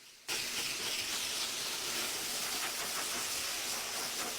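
Blow dryer running steadily on a cat's coat, an even airy hiss that cuts in abruptly about a third of a second in.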